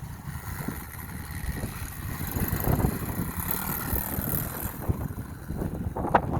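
SSR 110 pit bike's small single-cylinder four-stroke engine running while being ridden, heard under wind buffeting on the microphone.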